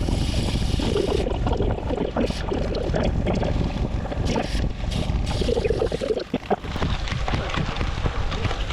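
Steady wind rush on the microphone of a moving motorcycle, over a low engine and road rumble.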